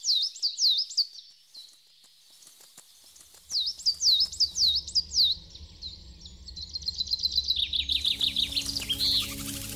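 A songbird singing phrases of quick, high down-slurred notes; the last phrase is a rapid trill that drops in pitch near the end. A low music drone fades in underneath from about a third of the way through.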